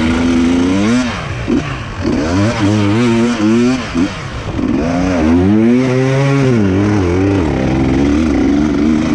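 Enduro dirt bike engine revving up and down repeatedly under throttle as the bike is ridden through mud, its pitch climbing and falling several times with brief drops when the throttle is shut.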